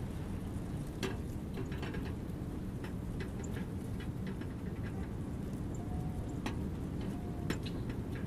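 Birds at a feeder: scattered short chips and clicks, irregular and many, with two brief low whistled notes after the middle, over a steady low rumble.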